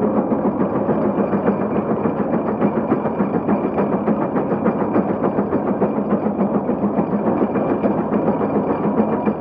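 Case 150 steam road locomotive running steadily, with a fast, even mechanical beat.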